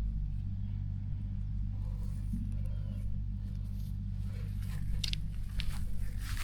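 Tractor engine idling steadily with a low hum, and a few short rustles and crackles near the end.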